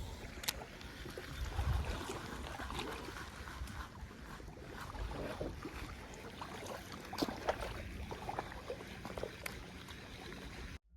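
Water sloshing and lapping in a steady hiss, with scattered light clicks and knocks throughout.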